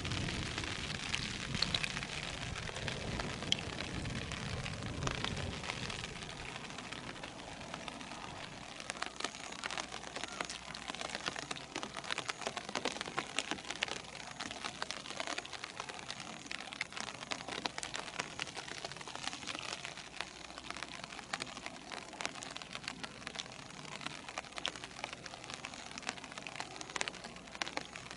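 Rain falling, a steady hiss dotted with many small drop ticks; a low rumble underneath dies away about six seconds in.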